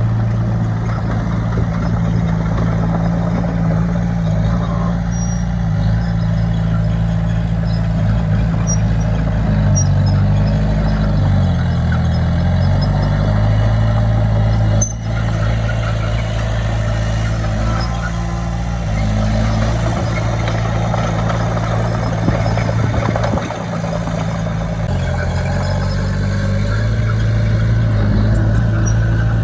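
Diesel engine of heavy earthmoving machinery running steadily, its engine speed shifting up and down several times as it works.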